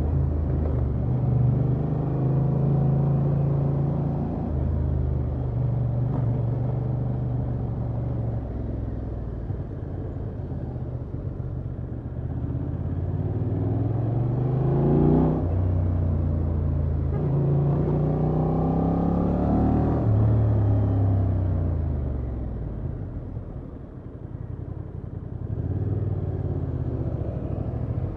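Honda XL750 Transalp's 755 cc parallel-twin engine through its stock exhaust, heard from the rider's seat while riding. The engine note climbs in pitch under acceleration twice, peaking about halfway in and again a few seconds later, then falls away and goes quieter as the throttle is eased off, before picking up again near the end.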